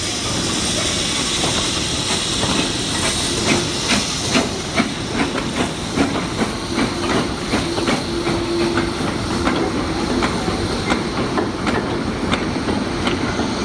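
A steam train passing close by. A loud hiss of steam fades through the first half, and from about three seconds in the wheels clatter over the rail joints a few times a second.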